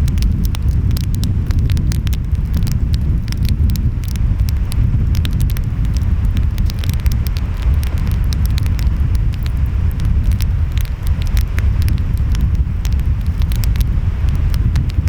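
Wood fire crackling with frequent sharp pops, over a steady low rumble of ocean waves.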